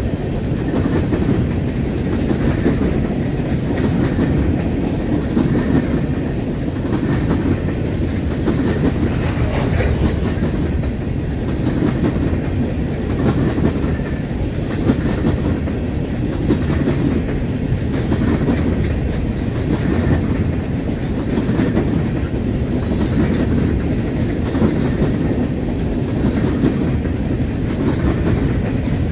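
Freight train of open-top hopper cars rolling past close by: a steady rumble of steel wheels on rail, with a regular clickety-clack swelling every couple of seconds as the cars' wheels pass over rail joints.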